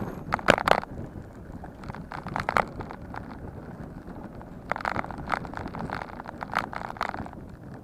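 Bicycle riding over rough ground with wind noise on the microphone, and several bursts of clattering and rattling as the bike hits bumps.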